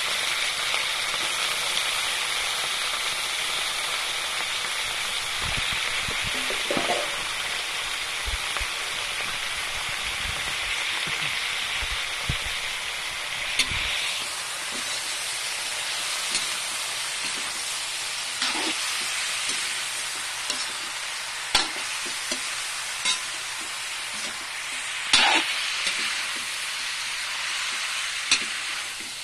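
Whole frogs frying in a wok, sizzling steadily, with a brighter, sharper sizzle for the first half. In the second half a spatula scrapes and taps against the pan a handful of times as the frogs are stirred.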